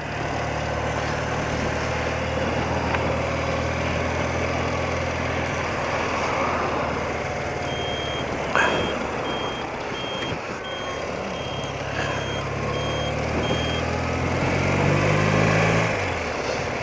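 Thirty-year-old BMW motorcycle engine running under way, not yet warmed up, with rushing road and wind noise. From about eight seconds in, a vehicle's reversing alarm beeps steadily for about six seconds, and near the end the engine note rises as it picks up revs.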